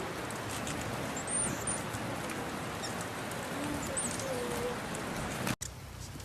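Steady background noise with a few short, high-pitched bird chirps: a pair about a second in and another about four seconds in. The sound drops out abruptly for an instant about five and a half seconds in, then carries on quieter.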